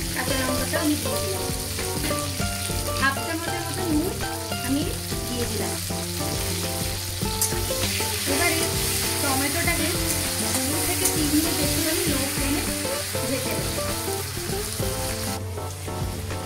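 Sliced green chillies and tomatoes sizzling in hot mustard oil in a kadai, with a spatula stirring and scraping against the pan now and then.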